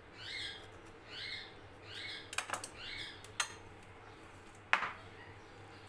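A bird calling in the background, four short arched calls about once a second, then stopping. Three sharp taps sound among them, the last and loudest near the end.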